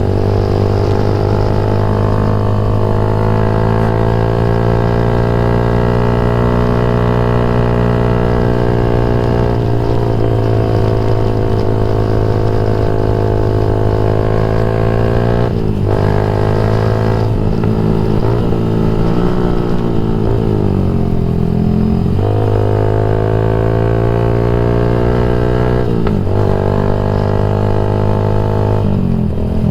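Yamaha MX King 150's single-cylinder four-stroke engine running through a Rob1 TGA aftermarket exhaust while riding. The note holds steady for a long stretch, then dips and climbs back a few times near the middle and again near the end.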